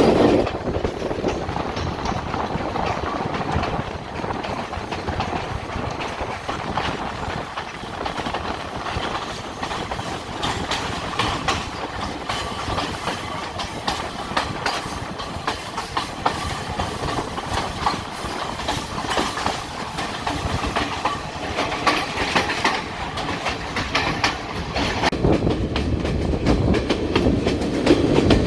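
Passenger train running along the track, with the steady clickety-clack of its wheels over the rail joints, getting louder near the end.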